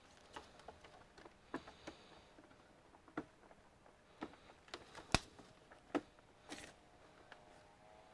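Scattered light clicks and taps of parts being handled while working on an all-in-one computer, with one sharp click about five seconds in and a brief rustle shortly after.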